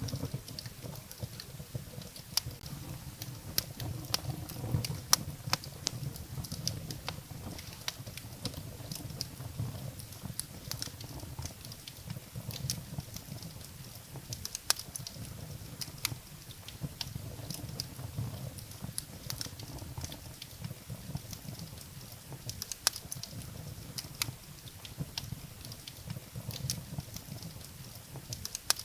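Wood fire burning in a fireplace, crackling with frequent irregular sharp pops and snaps over a low, fluttering rumble of the flames.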